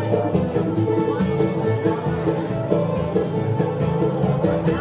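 Live bluegrass band playing an instrumental passage with busy plucked strings.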